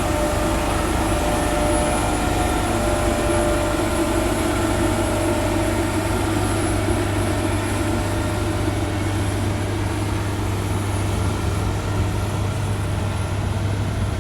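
Heavy diesel engine of earthmoving machinery running steadily, a constant low hum with a wavering whine over it.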